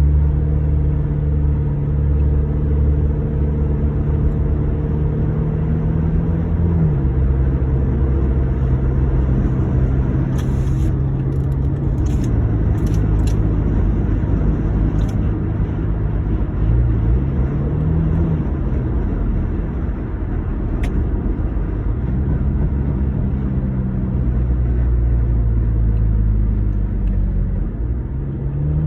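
2009 Honda Accord engine running, its pitch stepping up and down several times as the revs change, with a few sharp clicks about a third of the way in. The owner reports intake and exhaust leaks on this engine.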